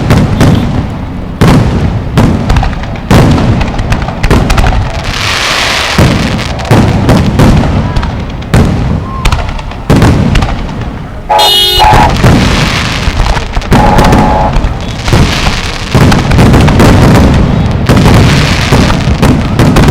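Fireworks going off: a rapid, continuous run of loud booms and crackling bursts, with brief whistles about halfway through.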